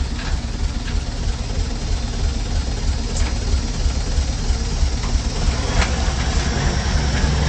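Heavy diesel engine of earthmoving machinery running steadily with a deep rumble, with a couple of faint knocks about three and six seconds in.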